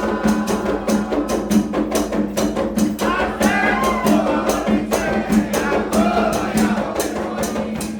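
Candomblé ritual song: voices singing over a fast, even beat of drums and struck percussion, about four to five strikes a second.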